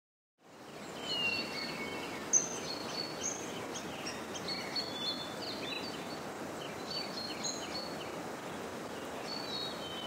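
Several wild birds calling, with many short chirps and whistled notes, over a steady outdoor background hiss. The sound fades in during the first second.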